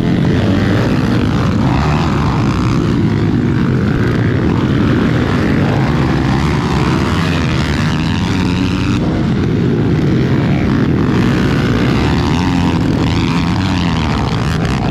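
Pit bike engines running hard and revving, their overlapping pitches rising and falling as the bikes race.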